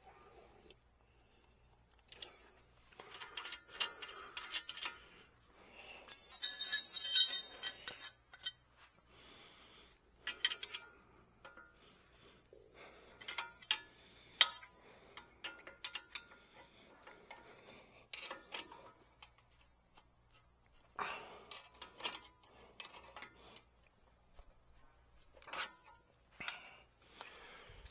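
Intermittent clinks, clicks and rattles of metal tools and parts being handled, with a louder ringing metallic jangle about six seconds in.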